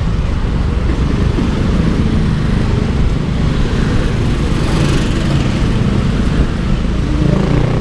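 Yamaha Aerox 155 scooter's single-cylinder engine running at steady speed under heavy road and wind rumble while riding, with a brief rise of hiss about five seconds in.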